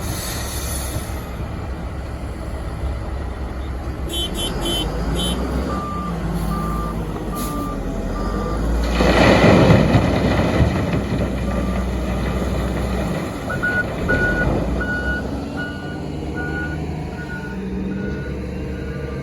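Heavy diesel machinery at work, a Komatsu WA900 wheel loader and a haul truck, with a low engine drone throughout and reversing alarms beeping at an even pace in two spells, the second with two beepers overlapping. About nine seconds in comes a loud rushing burst lasting over a second.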